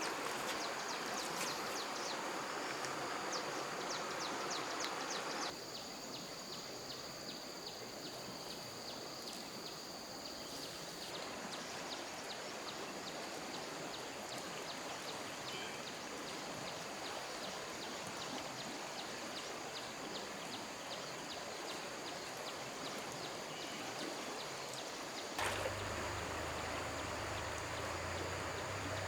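Steady rush of flowing stream water, with an insect's high, even trill and regular rapid chirps over it. The sound shifts abruptly a few times, about five seconds in, around eleven seconds and near the end, as at cuts between shots.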